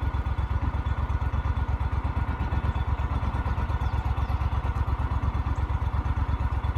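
Boat motor running steadily, a low, rapid, even pulse.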